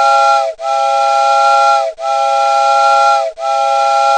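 A multi-tone horn chord, like a train air horn, sounding in repeated even blasts of about a second and a half with brief breaks between them. It starts abruptly, with no track or engine sound behind it.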